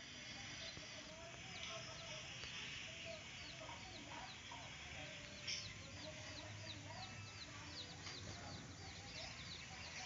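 Faint bird calls: a quick series of short, high chirps, a few a second, over soft, wavering lower calls.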